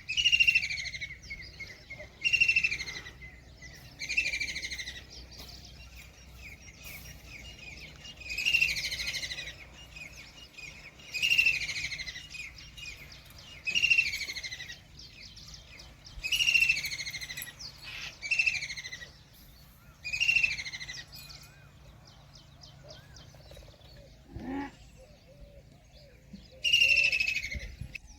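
White-throated kingfisher calling: a string of short calls, each falling in pitch and lasting under a second, repeated every two to three seconds, with a pause of a few seconds before a last call near the end.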